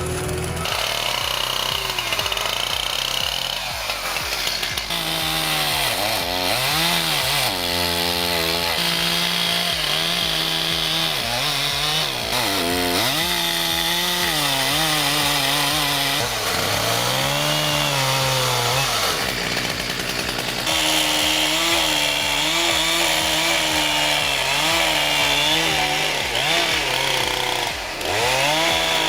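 Two-stroke chainsaw running through the cut, its engine pitch repeatedly rising and sagging as it revs and bogs down under load.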